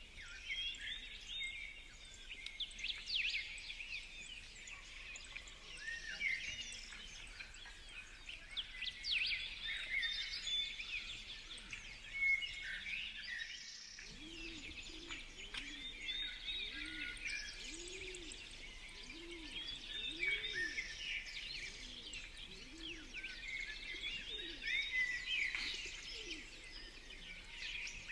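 Many small birds chirping and calling in quick, overlapping notes. From about halfway, low short calls, each rising and falling in pitch, repeat about once a second beneath the chirping.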